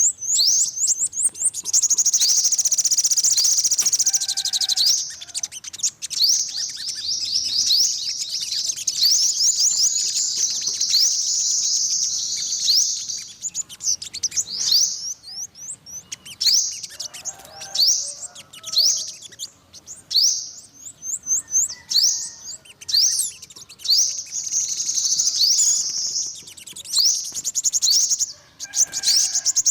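Yellow-bellied sunbird singing: rapid, high-pitched chirping trills, dense and unbroken for roughly the first half, then breaking into short separate phrases a second or two apart.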